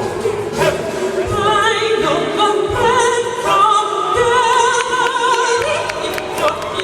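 Gospel choir singing with a live band: held notes with vibrato over a steady drum beat.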